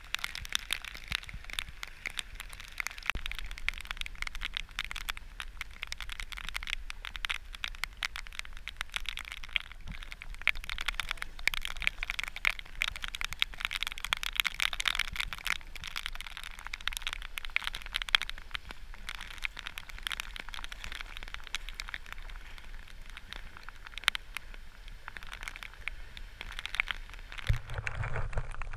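Rain falling steadily on floodwater, a dense crackling patter of countless drops. A brief low rumble comes near the end.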